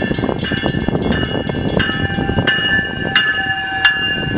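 Mechanical railroad crossing bells ringing in rapid, uneven strokes over the steady rumble of an arriving Metrolink commuter train.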